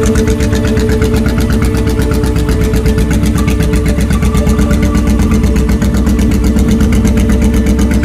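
Honda Shadow VT1100's V-twin engine running steadily at a constant speed, with a rapid even pulse.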